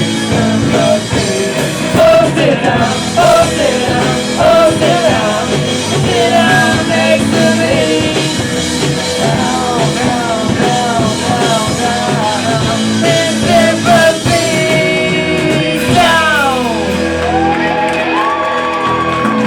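Live rock band playing in a hall, with singing and shouted vocals over the band. A falling glide in pitch about sixteen seconds in as the song heads toward its end.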